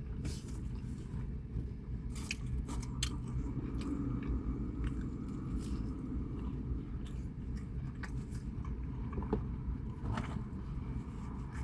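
Close-up chewing and biting as a Maxwell Street Polish sausage sandwich is eaten, with scattered wet mouth clicks over a steady low hum.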